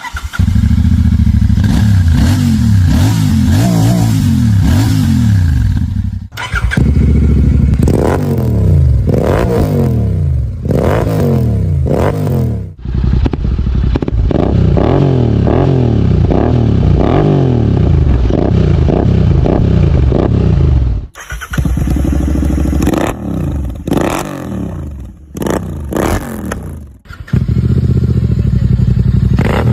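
Royal Enfield Continental GT 650 parallel-twin motorcycle exhaust, the engine revved up and down again and again in quick blips. The sound breaks off sharply several times and picks up again.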